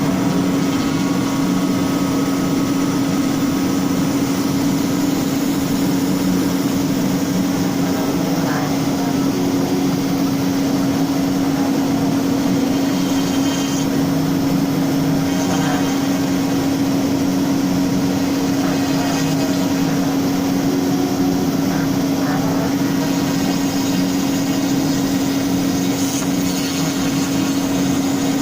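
CNC router spindle running at a steady high pitch as it cuts into wood, a constant hum with a rough, noisy edge and a few faint ticks.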